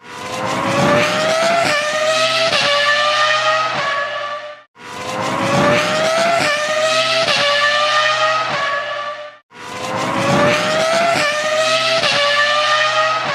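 Formula 1 car engine accelerating hard. Its high pitch climbs and dips briefly at each quick upshift, then fades out. The same few-second burst plays three times in a row, with short gaps of silence between.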